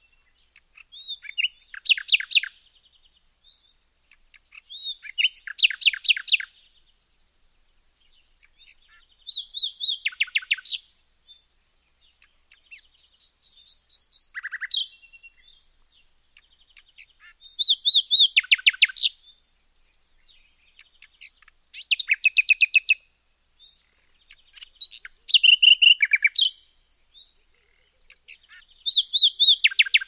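Songbird song: short phrases of rapid chirping notes, repeated roughly every four seconds with brief pauses in between.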